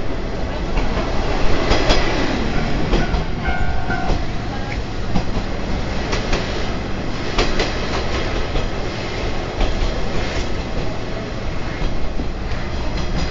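Trolley train car running along the track: steady running noise with occasional sharp clicks of the wheels over rail joints.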